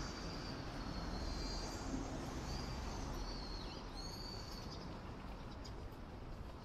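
Small birds chirping, a few short high calls that rise and fall within the first four seconds, over a steady hum of city traffic.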